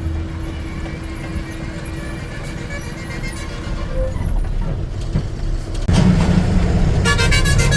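Truck engine and road rumble heard from the cab, growing louder about six seconds in. About a second later a vehicle horn starts sounding in rapid, pulsing tones.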